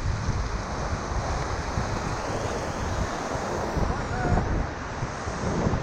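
Rushing whitewater of a river rapid, a steady hiss, with wind buffeting the microphone in uneven low gusts.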